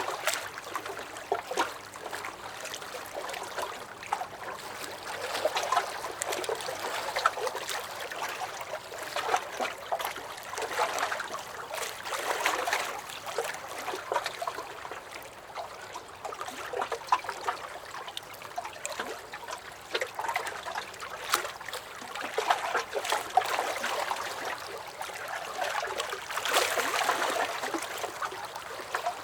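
Small lake waves lapping and splashing against a dock, in irregular swells every few seconds with small splashes and trickles.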